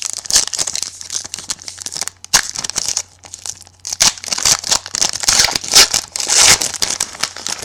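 Trading card pack wrapper crinkling and tearing as it is ripped open and handled, a dense run of irregular crackles.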